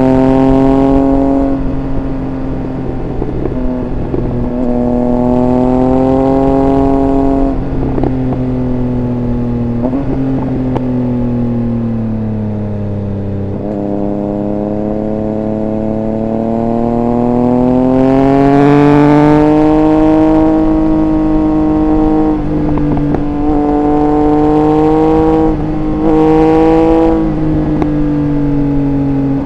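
Triumph Speed Triple 1200 RR's inline three-cylinder engine under way. Its pitch sinks as the throttle eases off about halfway through, then climbs steadily as it pulls hard again, with short breaks at several gear changes.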